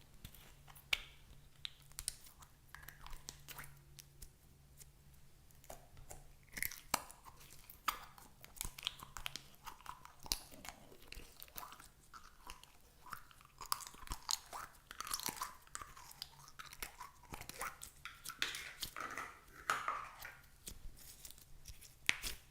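Slime being worked by hand: a run of sticky crackles, clicks and pops, thicker in the second half.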